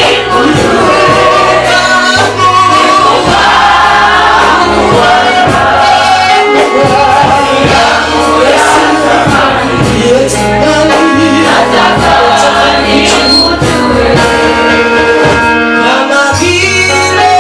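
Gospel worship music: a choir and lead voices singing together over a band with bass and drums.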